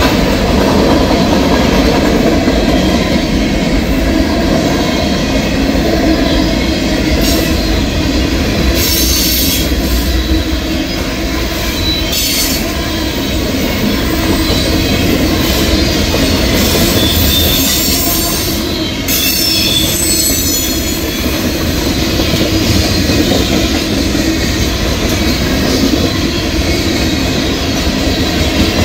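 Freight cars of a passing Norfolk Southern mixed freight train, tank cars and hoppers, rolling by close at speed: a steady rumble and rattle of steel wheels on the rails, with a few brief high-pitched wheel squeals.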